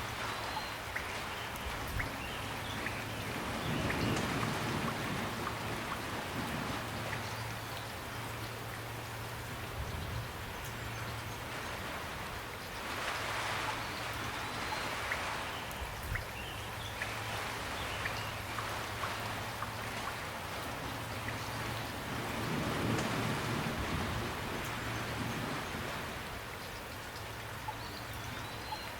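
Steady rain falling, with scattered sharp ticks of single drops and a few swells in loudness, about 4, 13 and 23 seconds in.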